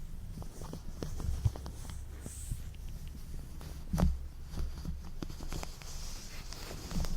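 Latex gloves handled close to the microphone: rubbing, stretching and crinkling with many small sticky clicks, and one louder snap about four seconds in.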